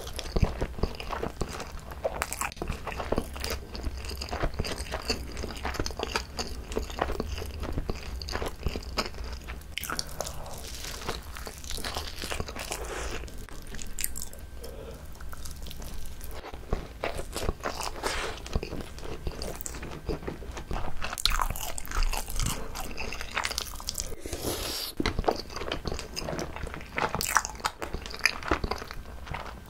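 Close-miked biting and chewing of a whole, uncut gimbap (seaweed-wrapped rice roll), with soft crunching and a steady run of small mouth clicks.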